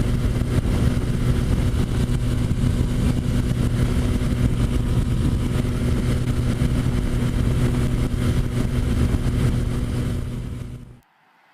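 Motorcycle engine running at a steady pace while riding, with wind noise on the microphone. The sound cuts off suddenly near the end.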